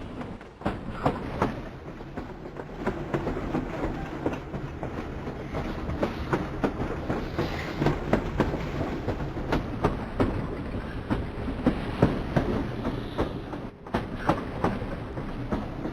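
Train running on rails: a steady low rumble with irregular clicks and clatter of the wheels over rail joints.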